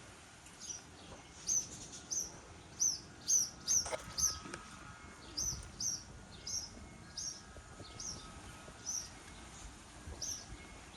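A bird repeating a short, high chirp over and over, roughly once or twice a second, against faint steady outdoor background noise.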